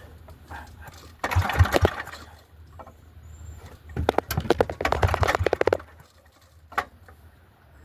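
Old portable generator's small engine being pull-started twice on its recoil starter, turning over in rapid chugging bursts without catching; the owner puts the failure down to the choke slipping in on the cold engine.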